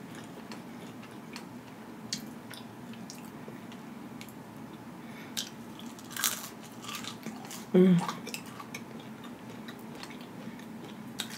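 Close-miked eating sounds: soft chewing with wet mouth clicks and lip smacks as a piece of sauce-dipped chicken is eaten by hand, with a louder smack about six seconds in and a brief hum of the voice near eight seconds.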